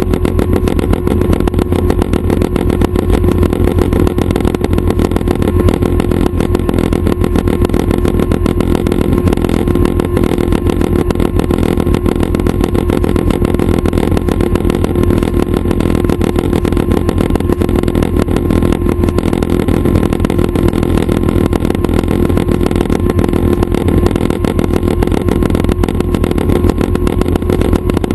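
Schweizer 269 light helicopter's piston engine and rotor running steadily: a loud, unchanging low drone with a constant hum over it.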